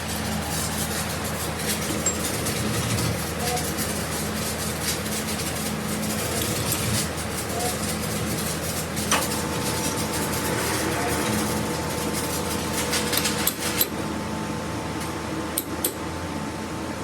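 Workshop machinery hums steadily while metal parts clink and tap now and then. About nine seconds in, a steady higher whine joins.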